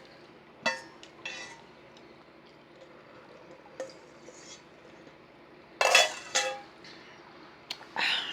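A spoon clinking and scraping in a dish of cereal while eating. There are a few scattered clinks, then two louder bursts of clattering about six and eight seconds in.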